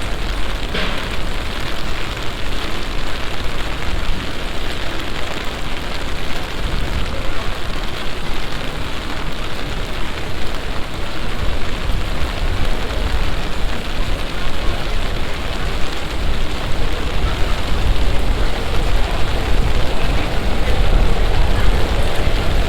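Heavy passing summer shower: rain pouring down steadily, a dense hiss over a low rumble.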